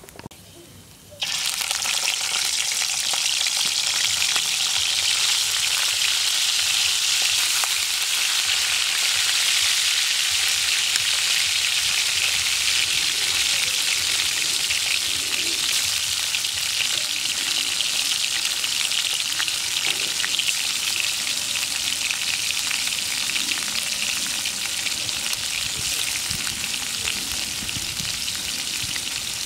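Pieces of eel frying in hot oil in a wok: a loud, steady sizzle that starts suddenly about a second in.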